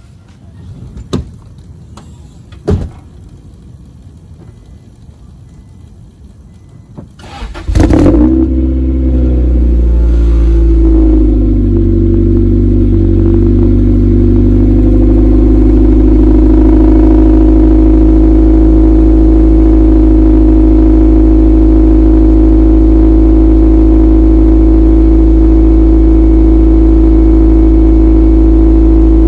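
A 1990 Acura Integra's 1.8-litre four-cylinder, breathing through a GReddy SP2 exhaust, is cold-started. After two sharp clicks, the starter cranks briefly about seven seconds in and the engine catches. It wavers for a few seconds, then settles into a steady cold idle.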